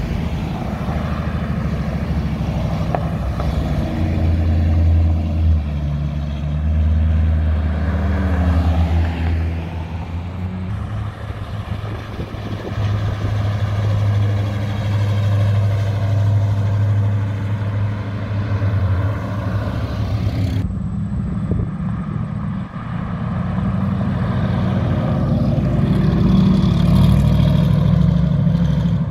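Several classic cars and trucks, including a 1950s pickup, a late-1960s muscle car and a Cobra-style roadster, driving past one after another with their engines running. The low engine note swells as each vehicle passes and fades as it pulls away.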